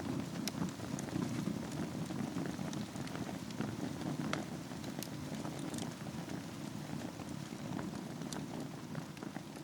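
Wood fire burning over embers in a fireplace: a steady low rush of flame with scattered sharp crackles and pops from the burning logs.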